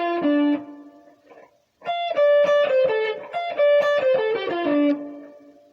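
Guitar playing a blues lick in single picked notes. A short descending phrase rings out and fades, then after a brief gap a longer run steps down the minor pentatonic, from the root through the flat seventh, fifth, fourth and minor third, and ends on a held low note.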